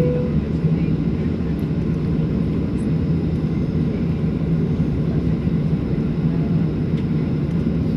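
Boeing 737-800's CFM56 jet engines running at steady take-off power, a constant low rumble that does not change in level.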